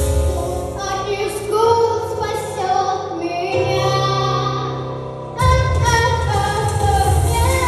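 A girl sings a pop song over a backing track with bass and drums. The low beat thins out for a few seconds, then comes back in louder about five and a half seconds in.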